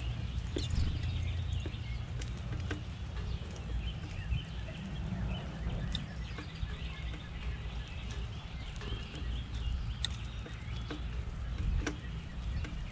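Small backyard birds chirping in short scattered calls, with occasional sharp clicks, over a steady low rumble.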